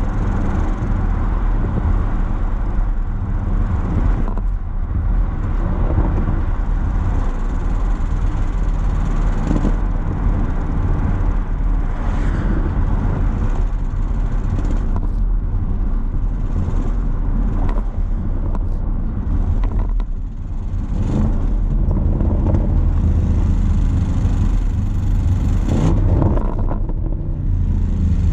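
Audi RS Q8's twin-turbo V8 running through a resonator-deleted exhaust, a steady deep drone. It dips briefly about two-thirds of the way through, then grows louder for a few seconds.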